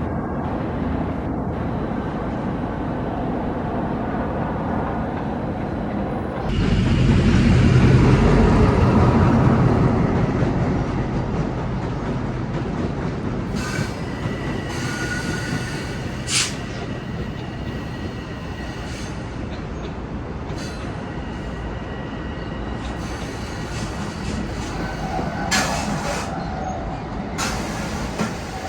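Long Island Rail Road train running on the track, a steady rumble that swells suddenly about six seconds in and then eases off. High metallic wheel squeals come in several short bursts in the middle and again near the end.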